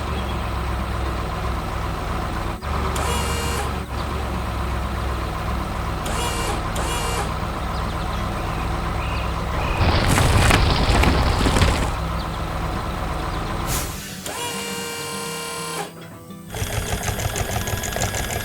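Background music mixed with heavy-machinery sound effects: a steady engine rumble, a louder noisy burst about ten seconds in, and a fast rattling rhythm near the end.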